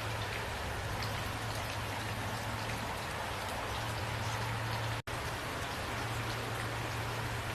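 Steady rain with individual drops clicking over an even hiss, and a steady low hum underneath. The sound cuts out for an instant about five seconds in.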